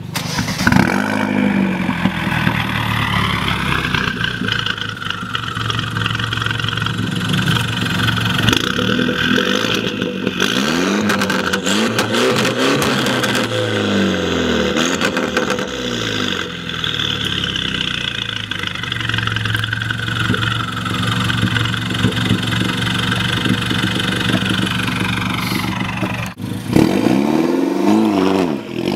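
Mini Cooper R56 four-cylinder engine running under load, its pitch rising and falling over and over as it revs up and eases off, with a brief dip about 26 seconds in.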